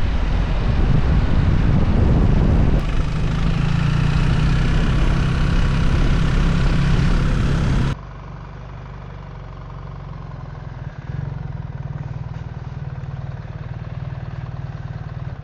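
BMW R 1300 GS Adventure's boxer-twin engine running steadily as the motorcycle is ridden. About eight seconds in, the sound drops abruptly to a quieter, steady engine note.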